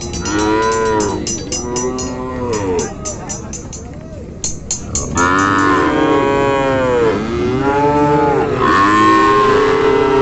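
Cattle mooing, about five drawn-out calls that rise and fall in pitch, the longest near the end. A rapid ticking runs under the first half.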